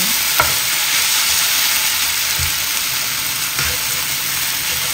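Noodles, beef and bean sprouts sizzling steadily in a nonstick frying pan as they are stir-fried, with a few light knocks of the spatula against the pan.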